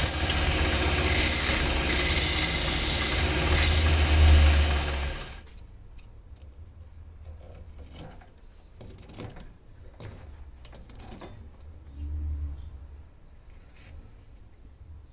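A workshop power tool's motor running steadily with a low hum, then switched off and falling quiet about five seconds in. Faint light knocks and handling sounds follow, with a brief low hum again near the end.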